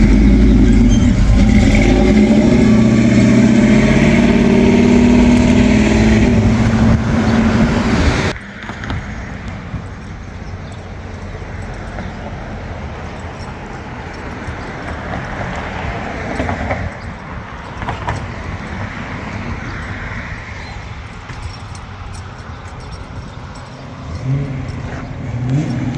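A loud hot-rod engine runs for about eight seconds, then the sound cuts off abruptly to quieter car sound. Near the end an engine revs up twice.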